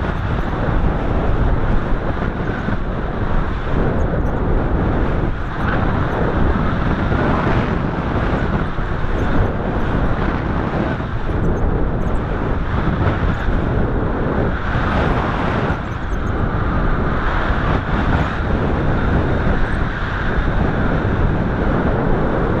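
Strong wind buffeting the microphone: a loud, constant rushing noise that swells and eases irregularly.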